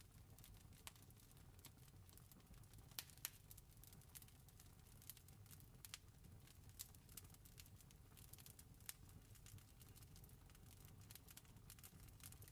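Campfire crackling faintly: irregular sharp pops and snaps, two louder ones close together about three seconds in, over a soft low rumble.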